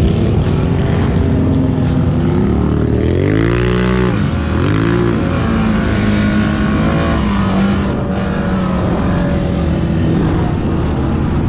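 ATV engine running, revving up and down twice a few seconds in, then holding a steadier pitch.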